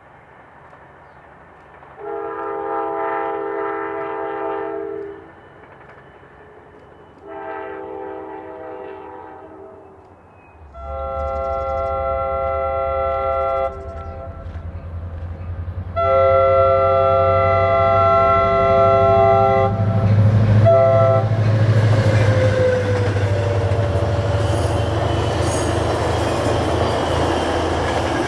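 EMD F40PH diesel locomotive sounding its multi-chime horn in a series of blasts that grow louder as it approaches: two fainter blasts, then two long loud ones with a short blast after them, in the pattern of a grade-crossing signal. The low rumble of the diesel engine comes in about a third of the way through, and near the end the train rushes past with wheel clatter.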